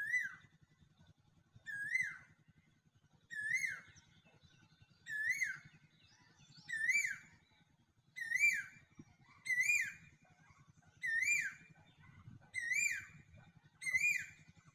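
A bird's whistled call repeated about every second and a half, each note rising then quickly dropping, over a faint low hum.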